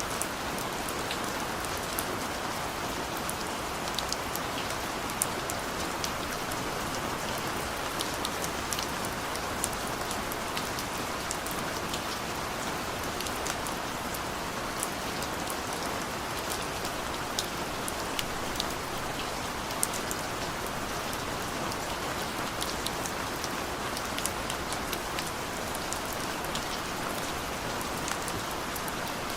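Steady rain falling on a surface, a constant hiss with many distinct drops ticking and pattering close by.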